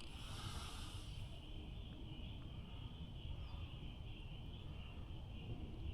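Faint outdoor ambience: a steady, high-pitched insect drone over a low rumble.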